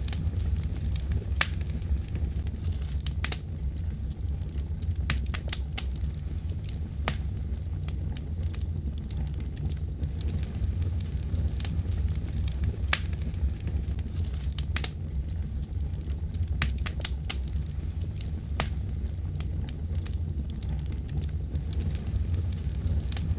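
Fire crackling: a steady low rumble with sharp pops and snaps at irregular moments.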